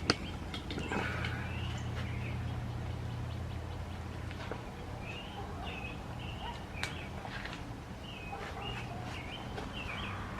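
Birds chirping, with short repeated chirps coming thicker in the second half, over a steady low hum and a few sharp clicks.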